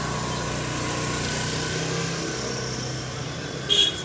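A small motor vehicle engine running steadily, easing off somewhat after about two and a half seconds, with a brief, sharp high-pitched chirp near the end.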